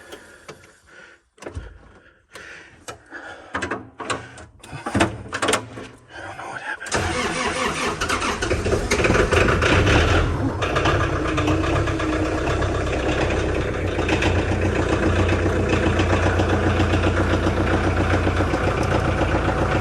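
Tractor engine being started: a few seconds of short knocks and cranking, then it catches about seven seconds in and runs steadily, warming up at idle.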